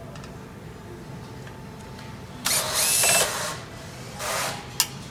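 Cordless drill-driver run in two short bursts, undoing the screws on a stove's rear flue blanking plate, followed by a sharp click.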